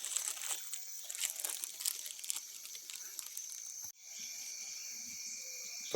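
Wood bonfire crackling and popping irregularly over a steady high chirring of crickets; the crackling stops abruptly about four seconds in, leaving the crickets.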